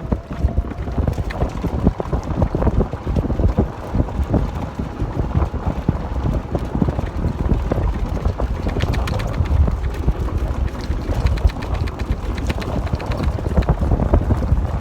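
Wind buffeting the microphone in a steady low rumble, with irregular knocks and rattles running through it.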